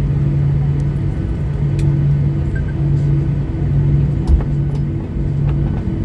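Boeing 737-800 cabin noise while taxiing: the CFM56-7B engines at idle give a low hum that pulses about once a second, under a steady rumble. A few faint clicks and one short low thump come about four seconds in.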